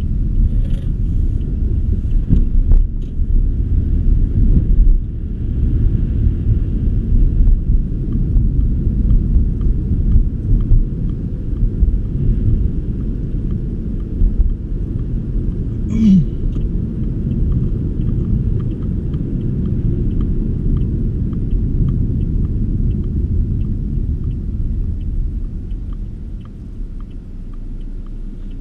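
Car driving on snowy roads, a steady low rumble of engine and road noise, with one brief sharp squeak or knock about halfway through. The rumble eases off near the end.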